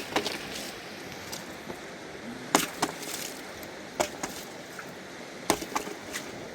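A series of sharp knocks or strikes, one every second and a half or so, with lighter clicks in between, over a steady rush of flowing water.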